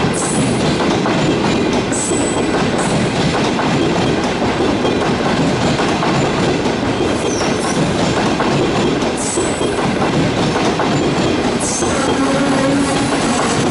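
Passenger coaches of a train rolling past close by at speed: a steady loud rumble of steel wheels on rail, with the clickety-clack of wheels over rail joints and occasional sharp high clicks. A low steady tone comes in near the end.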